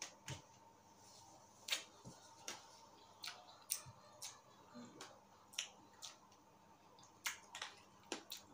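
Faint chewing with sharp, irregular mouth clicks and lip smacks, roughly two a second, picked up close by a clip-on microphone.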